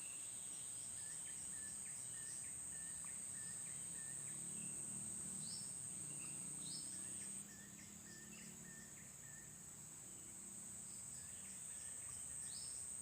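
A steady high-pitched insect drone that drops in level a little over halfway through, with scattered short bird chirps and quick rising calls.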